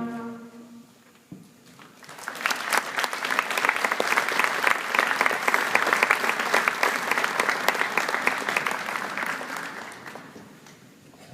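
Audience applauding at the end of a concert band piece. The band's last held chord dies away at the start, and after a short pause clapping begins about two seconds in, holds steady, and fades out near the end.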